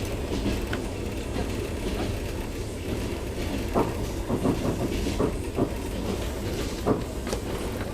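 Passenger train on the Trans-Siberian Railway running along, heard from inside the carriage as a steady low rumble, with a few short knocks and clatters from the middle of the clip onward.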